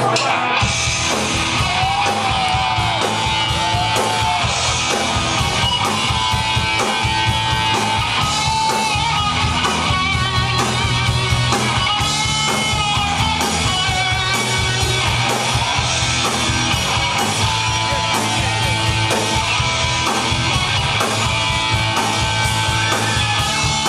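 Punk rock band playing live: electric guitars, bass and drums with a steady beat, in the instrumental opening of a song.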